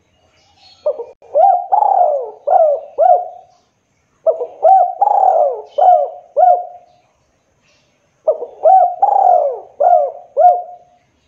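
Spotted dove (tekukur/derkuku) cooing: three phrases of about five notes each, separated by short pauses of a second or so.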